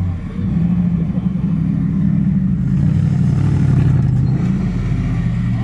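Off-road vehicle engine running hard under load, its pitch rising and falling as the throttle is worked.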